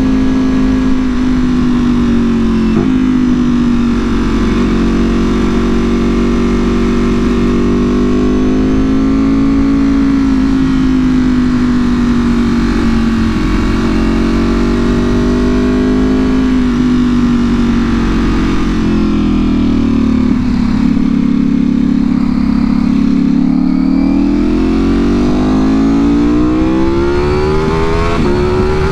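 Ducati Panigale V4R's V4 engine through an Akrapovic full exhaust, running at fairly steady revs that rise and fall gently. The revs dip a little about two-thirds of the way in, then climb steadily as the bike accelerates near the end.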